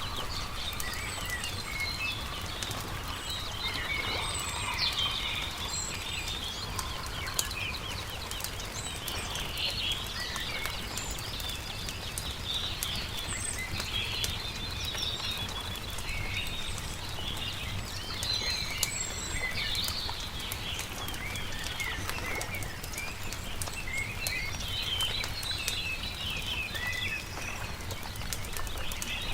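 Several songbirds chirping and singing continuously over the sharp pops and crackles of a wood campfire, with a steady low rumble underneath.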